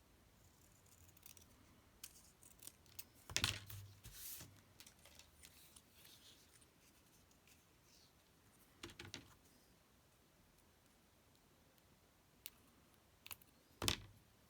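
Scissors snipping paper a few times, short sharp clicks with long quiet stretches between, the loudest cluster about three and a half seconds in and another near the end.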